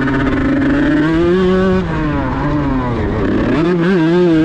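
Kawasaki Ninja grasstrack motorcycle engine being revved: the pitch rises about a second in, drops back around three seconds, then climbs again and holds near the end.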